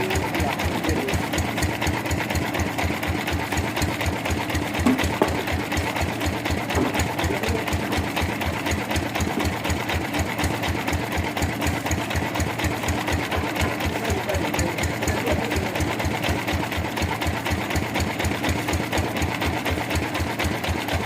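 Sawmill machinery running steadily with a fast, even chugging pulse, its engine or motor at a constant pace. Two short sharp knocks come about five seconds in.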